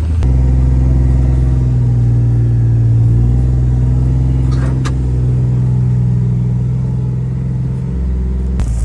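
Vehicle engine running steadily while driving, with a low hum that rises slightly a couple of seconds in and a couple of brief clicks about halfway through. The sound changes abruptly just before the end.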